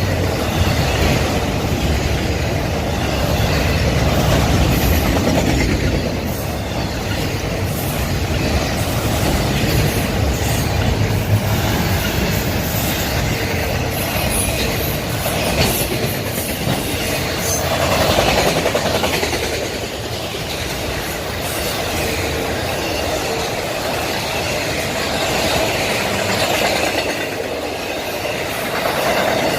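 A freight train of autorack cars rolling past with a continuous rumble of steel wheels on rail and a clickety-clack over the rail joints. Faint wheel squeal comes and goes. The low rumble is heavier in the first part.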